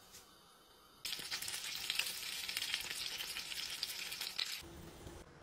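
Steak, chips and baked beans frying in a pan, a dense crackling sizzle with many small pops that starts suddenly about a second in. Near the end it drops to a quieter, lower hiss with a low hum.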